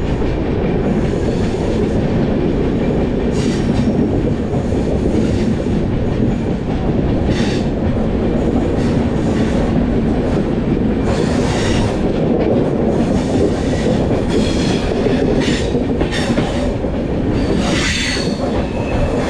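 Passenger train running on the rails: a steady rumble of wheels on track, with several brief high-pitched wheel squeals along the way.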